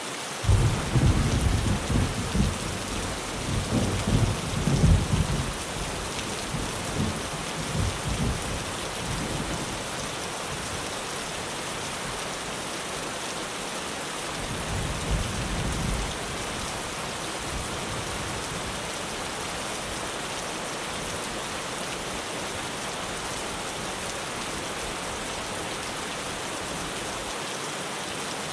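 Steady heavy rain drumming on a tin roof, with a peal of thunder rumbling in just after the start and dying away over several seconds, and a second, shorter rumble about halfway through.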